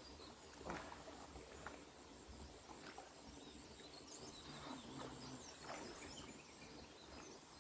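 Quiet outdoor ambience with a few faint high chirps of birds about halfway through, and several soft knocks or taps scattered through it.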